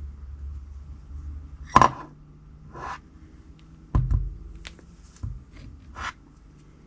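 A series of separate knocks and clicks of hard objects being handled on a bench, about a second apart, the loudest near two seconds in and again about four seconds in.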